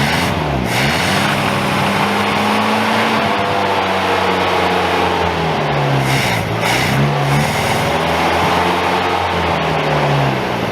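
Ford Pinto engine running just after a cold start, kept alive on the throttle: the revs sag and are caught again several times. It will not idle on its own.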